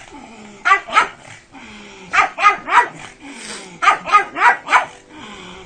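Pug barking repeatedly in short runs: two barks about half a second in, three about two seconds in, and four near the end.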